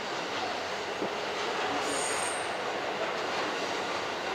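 A train running on the station tracks: steady running noise, with a brief high squeal about two seconds in.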